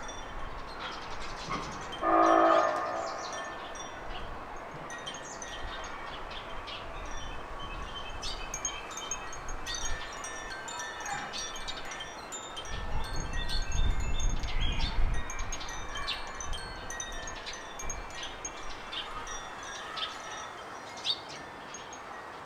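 Garden birds calling with many short, high chirps and tinkling notes throughout. A loud horn-like tone sounds briefly about two seconds in, and a low rumble swells and fades in the middle.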